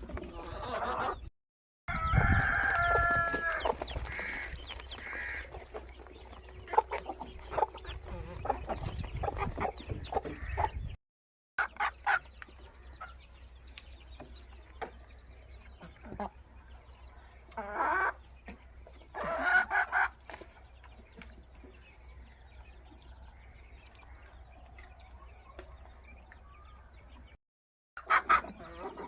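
Aseel chickens clucking and calling, with a rooster crowing, in short clips broken by abrupt silent cuts.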